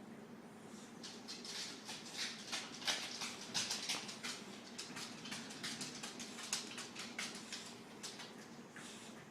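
Sleeping English bulldogs snoring and snuffling: a run of short, irregular noisy breaths, busiest in the middle.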